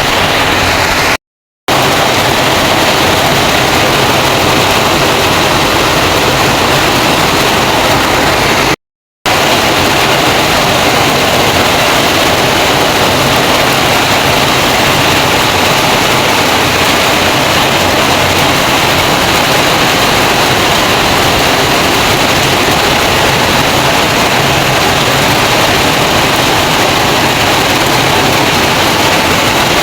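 Heavy rain falling steadily, a loud even hiss. Two brief dropouts to silence, about a second in and about nine seconds in.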